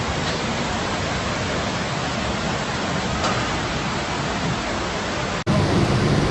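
Steady rushing noise of floodwater. About five and a half seconds in it cuts off abruptly and gives way to a louder, lower hum.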